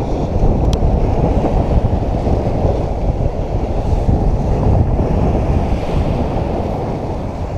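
Strong wind buffeting the microphone in a continuous low rumble, with the sea washing against the rocky shore beneath it.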